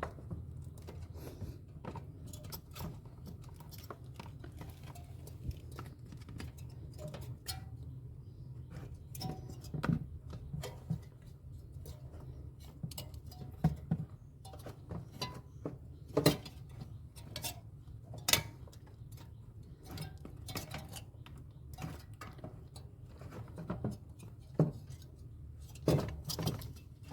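Scattered light clicks, taps and knocks of hand tools and small parts being handled while a two-door refrigerator is being taken apart, over a steady low hum. The sharpest knocks come at irregular moments, a few in the second half.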